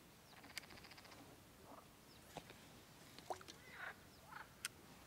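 Near silence on open water: a few faint, short bird calls and scattered small clicks.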